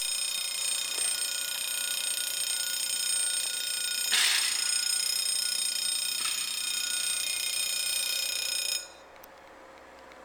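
Level crossing warning alarm sounding steadily, then cutting off suddenly about nine seconds in. A brief rushing noise rises over it a little after four seconds.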